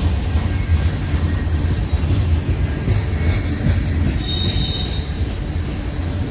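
A train rolling past, its cars making a steady deep rumble, with a brief high-pitched wheel squeal a little past the middle.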